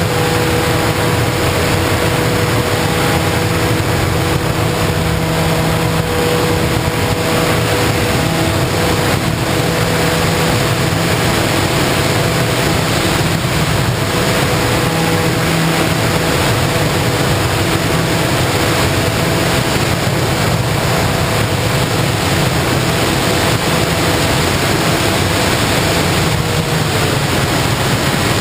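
Air rushing over the onboard camera microphone of an FPV model aircraft in flight, with the faint steady tone of its motor and propeller under it. The tone drops slightly near the end.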